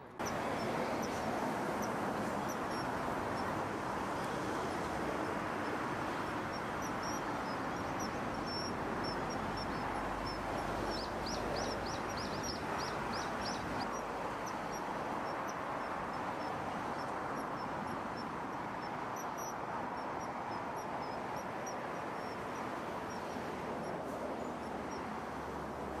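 High, thin bird calls repeated over a steady rushing background noise, with a quick run of about ten sharp high notes beginning about eleven seconds in and lasting some three seconds.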